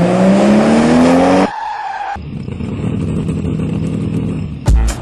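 Car engine revving with its pitch climbing, cut off abruptly about a second and a half in. A steadier, quieter running hum follows, then a few sharp knocks near the end.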